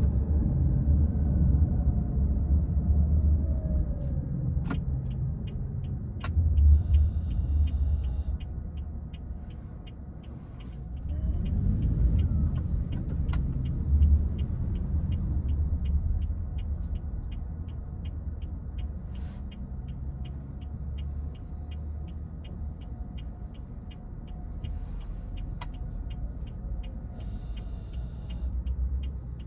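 A car being driven, its road and engine rumble heard from inside, rising and falling with speed. From about a quarter of the way in, a steady rapid ticking of about three clicks a second runs on, and two short high beeps sound, one early and one near the end.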